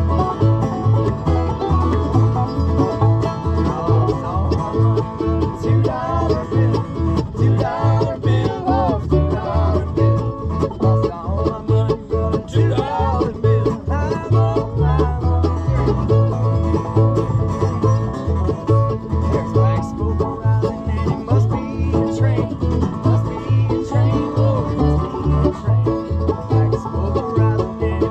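Acoustic bluegrass band playing an instrumental stretch of a tune: banjo picking over guitar, with steady low bass notes on every beat.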